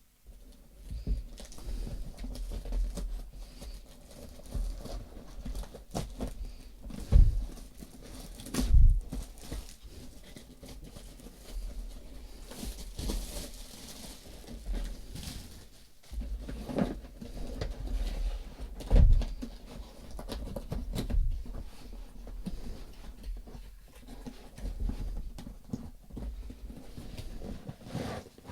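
Rustling and handling of packaging and parts during unpacking, with irregular scraping and a few dull knocks of things set down on a table; the loudest knocks come about seven, nine and nineteen seconds in.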